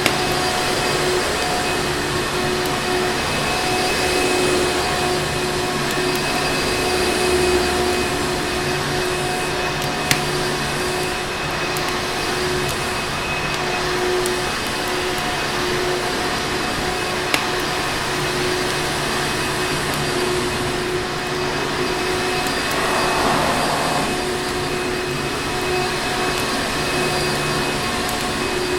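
Electric vacuum cleaner running steadily, its motor giving a constant whooshing noise with a steady whine. Two brief sharp clicks stand out partway through.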